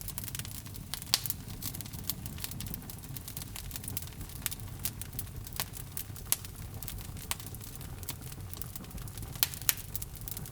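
Wood logs burning in a fireplace: a steady low rumble of flame with irregular sharp crackles and pops, a few louder snaps about a second in and near the end.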